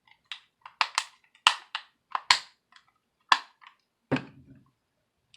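Irregular sharp plastic clicks and taps from the mini speaker's plastic casing parts being handled and pressed together, with a duller knock about four seconds in.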